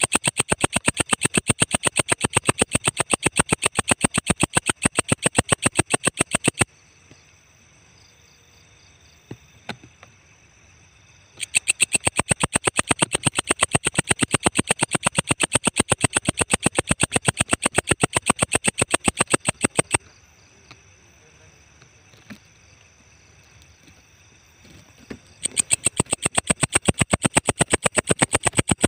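Walang ecek, a singing insect used as a master song for songbirds, chirping in rapid, evenly spaced pulses, sharp and high-pitched. It sings in bouts: it stops about six and a half seconds in, starts again around eleven seconds, stops again at about twenty seconds, and resumes near the end.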